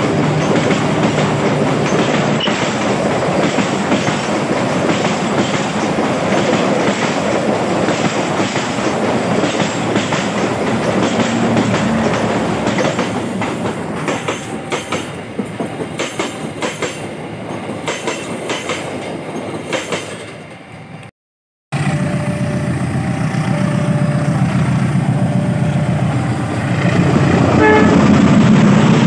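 A train passing close by, its wheels clacking over the rail joints, the sound thinning out after about fifteen seconds. After a brief break, a locomotive's engine running steadily, with a few short horn notes, growing louder near the end.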